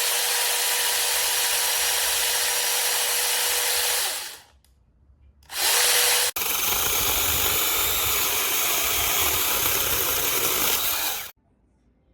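Battery-powered electric mini chainsaw running in three stretches, each starting and stopping abruptly: about four seconds with a steady whine, a short burst about five and a half seconds in, then about five seconds more before it cuts off near the end.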